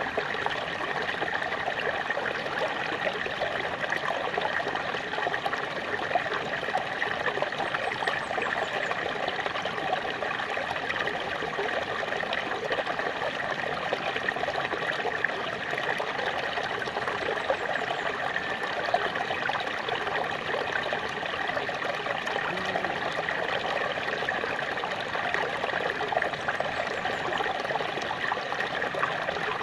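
Small waterfall splashing and trickling steadily, an even rushing with fine splashy detail.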